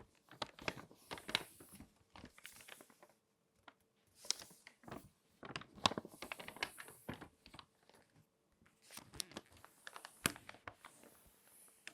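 Glossy magazine paper being folded and crinkled by hand: clusters of sharp crackles and rustles coming in bursts, with a couple of brief pauses.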